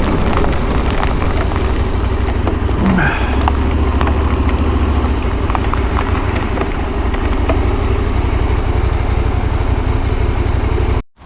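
Motorcycle running at a steady speed, with a strong low engine hum under wind and road noise. The sound cuts off suddenly near the end.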